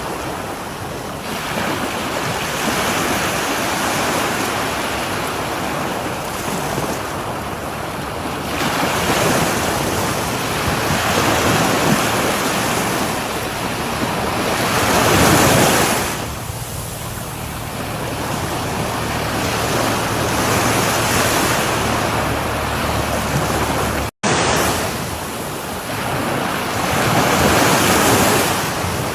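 Sea waves breaking on a shore: surf swells and washes back in slow surges every few seconds. About three quarters through, the sound drops out completely for a moment, then resumes.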